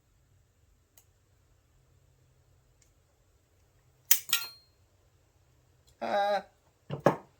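Sharp metallic clicks and a brief high ringing clink as a steel retaining clip (snap ring) is worked off a transaxle shaft, followed by a short rasp about six seconds in and two more sharp clicks near the end.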